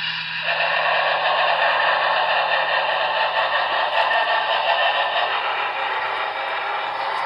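HO-scale Union Pacific Big Boy #4014 model locomotive's onboard sound decoder playing a steady steam hiss through its small speaker, growing fuller about half a second in, over a low steady hum.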